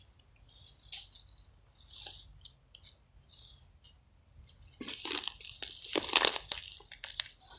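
Rustling and crackling of dry leaves and plant stems as wild garlic is pulled from the ground and handled, sparse at first and busier from about five seconds in.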